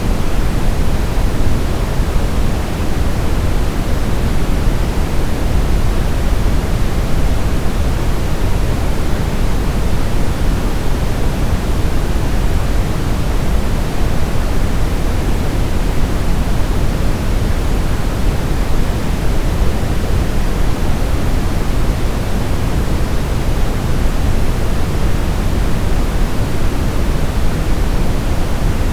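Steady, unchanging white noise played as a baby sleep aid. Its hiss is weighted toward the bass and thins toward the treble, closer to pink noise than to flat white noise.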